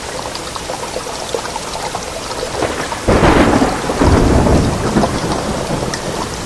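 Steady heavy rain falling, with a sudden crack of thunder about halfway through and a deep rumble about a second later that slowly dies down.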